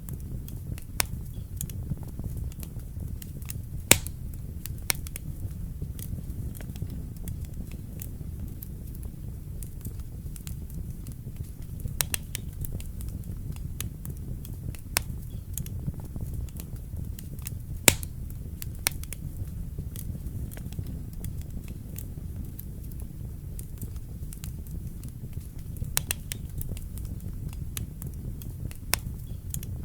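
Wood fire burning in a fireplace: a steady low rumble of the flames with irregular sharp crackles and pops, two louder pops standing out.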